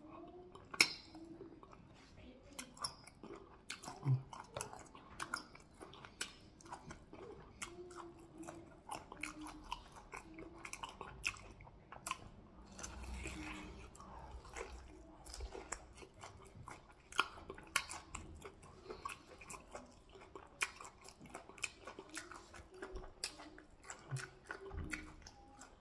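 A person biting and chewing cow meat coated in afang soup, close to the microphone: many short, irregular clicks of the mouth and teeth.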